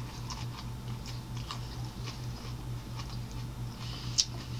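A person biting into and chewing a sub sandwich of soft bread, lettuce and deli meat: small wet clicks and smacks of the mouth, with one sharp click about four seconds in. A steady low hum runs underneath.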